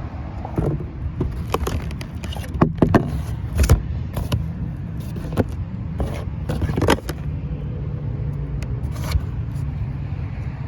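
Steady low rumble of an idling engine, with a run of sharp knocks and clanks for the first seven seconds or so, the loudest two about three and four seconds in.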